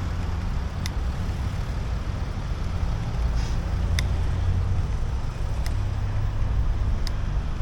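Road traffic noise: passing cars and a steady low rumble. Four sharp clicks are spread through it.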